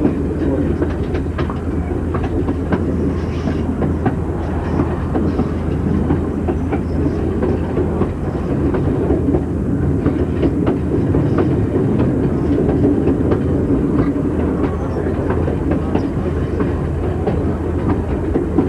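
Passenger railcar rolling along jointed track: a steady rumble with wheels clicking over the rail joints again and again.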